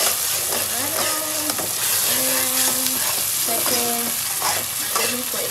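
Tomato and pepper sauce sizzling as it fries in oil in a nonstick pot, stirred with a spatula scraping the pan. Short pitched squeaks come and go over the steady sizzle.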